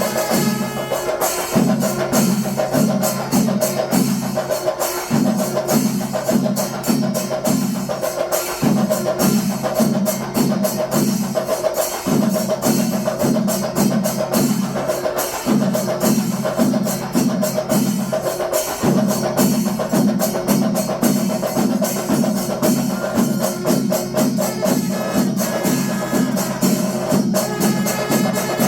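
Percussion music with rapid drum strokes over a low pattern that repeats about every three and a half seconds.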